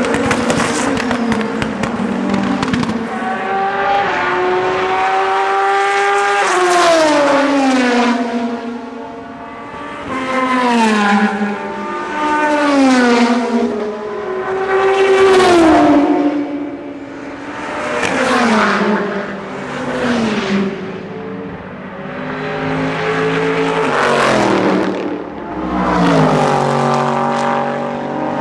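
Sports-prototype and GT endurance race cars passing at speed one after another, about eight passes, each engine note dropping in pitch as the car goes by. Between passes the engines rise in pitch as they accelerate through the gears.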